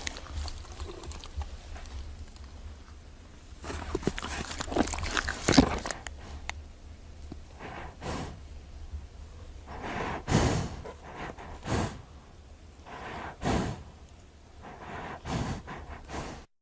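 Horse snorting and blowing through its nostrils: a string of separate noisy breaths a second or two apart, with a low hum under the first half.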